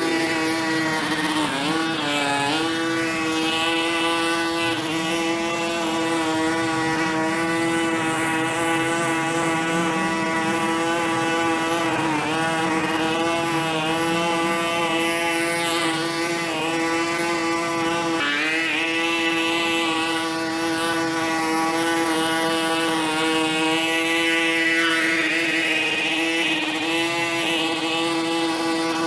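A small engine or motor running steadily at high speed, its pitch dipping briefly a few times before recovering.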